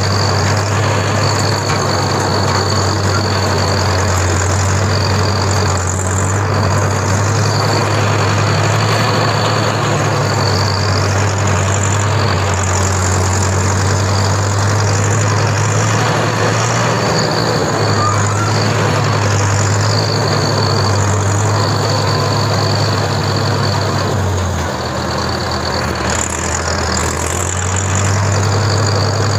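Tractor engine running steadily under load with a deep, constant hum, and a thin high-pitched whine that comes and goes every few seconds.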